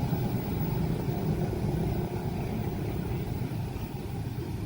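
Steady low rumble of vehicle noise, with no distinct knocks or changes.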